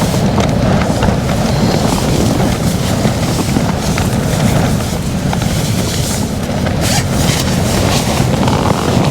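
Storm wind buffeting a Hilleberg Soulo tent: a loud, steady low rumble with short rattling snaps scattered through it.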